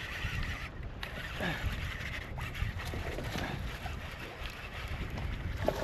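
Wind rumbling on the microphone over a steady hiss, with a few faint, brief knocks or splashes.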